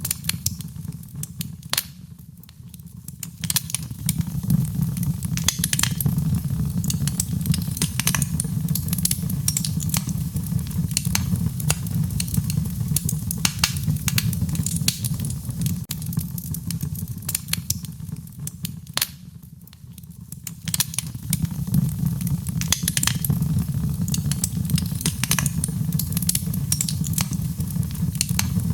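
Wood fire burning: a steady low rumble of flames with frequent sharp crackles and pops. The sound drops away briefly twice, about two seconds in and again about two-thirds of the way through.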